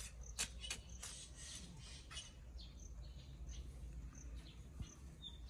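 Faint outdoor ambience: short, high bird chirps now and then over a steady low rumble, with a few sharp clicks in the first couple of seconds.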